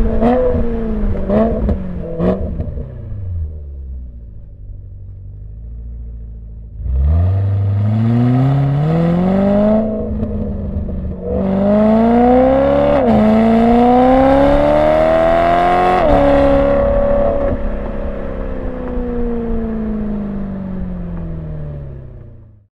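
BMW E92 M3's V8 through a Borla ATAK exhaust without venturis, heard from a microphone on the car. A few quick throttle blips settle to a low, quieter stretch. Then hard acceleration climbs in pitch through the gears, with upshifts about 10, 13 and 16 seconds in, and the engine eases off, its pitch slowly falling.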